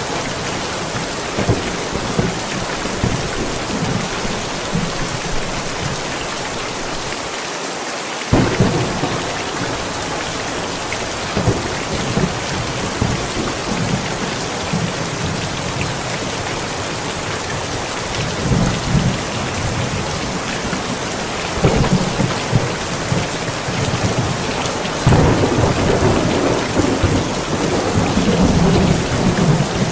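Heavy rain falling steadily, with thunder rumbling irregularly underneath. The rain jumps louder suddenly about eight seconds in, and the thunder swells louder in the last few seconds.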